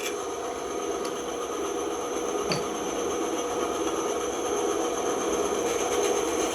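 Band saw running steadily, a constant machine hum with a hiss over it, and one short click about two and a half seconds in.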